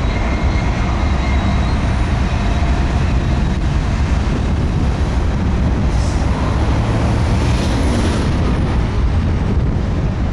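A train going by: a loud, steady rumble.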